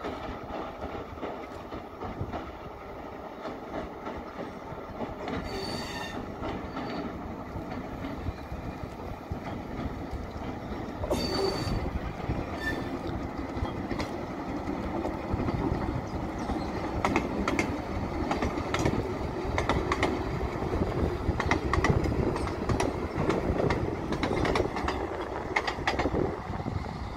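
Narrow-gauge train running past, growing louder as it comes closer. Brief wheel squeals sound about six and eleven seconds in, and quick clicks of the wheels over the rails come through the second half.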